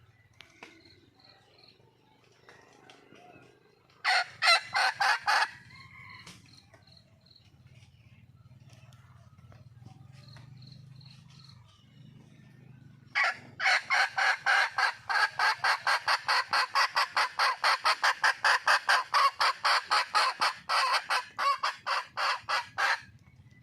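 Junglefowl hen calling: a short run of rapid, sharp notes about four seconds in, then a long series of evenly spaced notes, about four a second, lasting some ten seconds before stopping.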